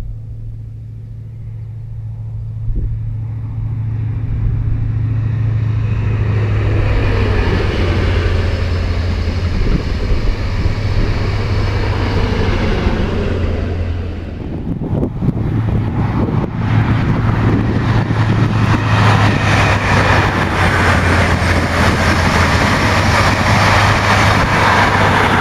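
High Speed Train passing: the steady low drone of its Class 43 diesel power cars, with the rush of the coaches running on the rails growing louder over the first few seconds. After a break about 14 seconds in, a closer and louder pass of the coaches.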